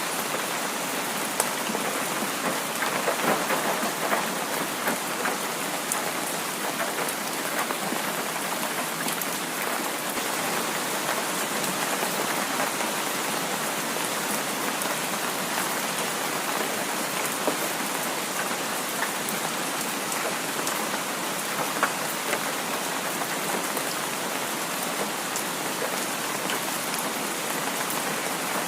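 Heavy rain falling steadily, with scattered sharper ticks of individual drops over an even hiss.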